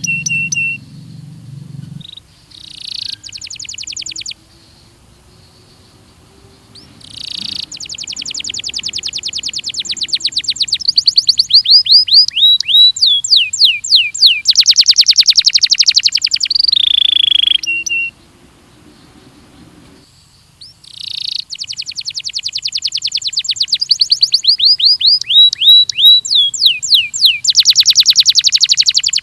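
Domestic canary (Belgian canary) singing: long phrases of rapid, even trills and repeated downward-sliding whistled notes, broken by two short pauses.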